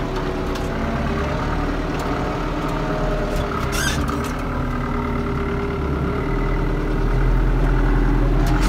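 Farm tractor diesel engine running steadily, its low rumble growing heavier about seven seconds in, with a brief high hiss about four seconds in.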